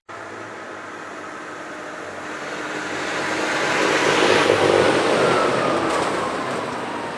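A lorry driving past, growing louder to a peak about halfway through and then fading, with a whine that falls in pitch as it goes by.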